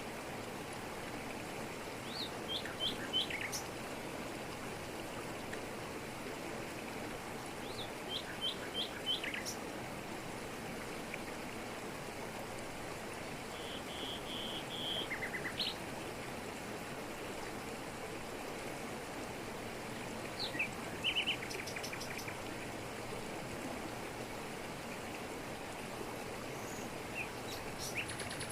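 Steady rush of a waterfall falling over rocks in tropical forest, with birds calling over it in short phrases of quick notes every several seconds.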